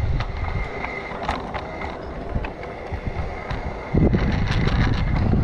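Wind buffeting the microphone in uneven gusts, loudest from about four seconds in, with scattered faint clicks.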